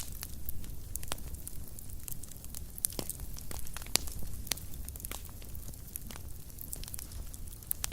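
Wood fire burning in a fireplace: irregular sharp crackles and pops, some louder than others, over a steady low rumble of the flames.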